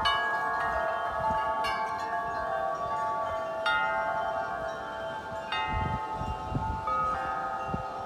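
Wind chimes ringing in gusty wind. Several tones are struck at uneven intervals, every second or two, and each rings on and overlaps the next.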